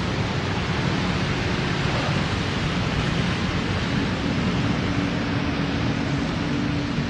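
Heavy rain falling in a steady hiss. About halfway through, a low steady engine hum joins it.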